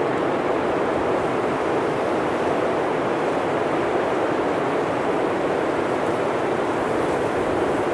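Blizzard wind blowing through forest trees: an even, steady rushing noise with no distinct gusts or breaks.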